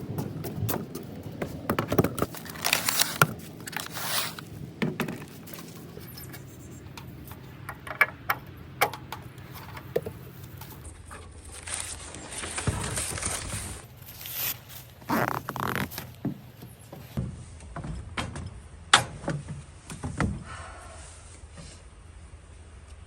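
Objects being handled: an irregular run of scrapes, clicks and knocks, with one sharp knock near the end.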